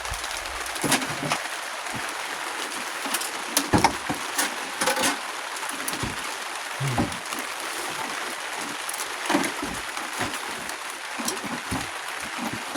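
Steady hiss of rain on the shop roof, with scattered knocks and clinks of tractor parts being handled. The loudest knocks come around four and five seconds in.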